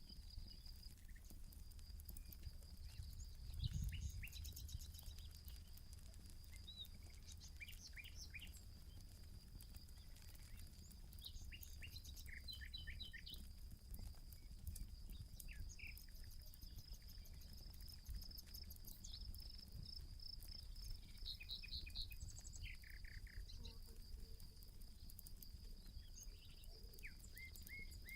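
Small birds chirping and calling in short phrases over a steady high-pitched insect trill, with the faint light crackle of a campfire. There is a brief low rumble about four seconds in.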